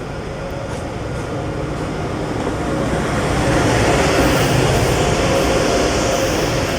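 Passenger train running on the rails, a steady rumble and rush that grows louder and brighter about three seconds in.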